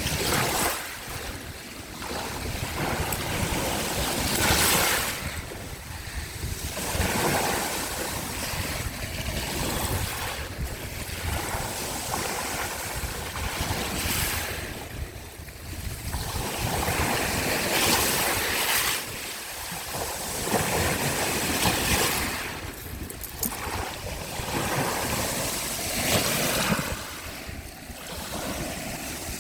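Small sea waves washing onto the shore, swelling and ebbing every few seconds, with wind buffeting the microphone.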